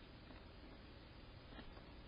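Near silence: faint steady hiss with a couple of soft ticks.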